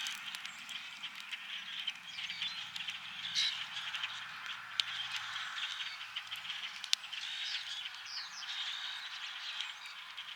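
A dense spring chorus of frogs trilling continuously, with the crackle of a wood campfire over it and two sharp pops about five and seven seconds in.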